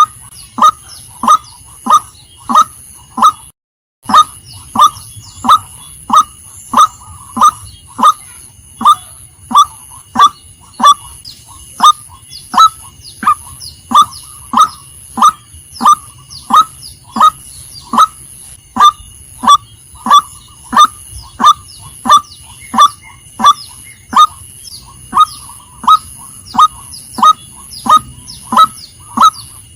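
Female white-breasted waterhen calling: one short, falling note repeated steadily about one and a half times a second, with a brief break just before four seconds in. A steady high tone runs underneath.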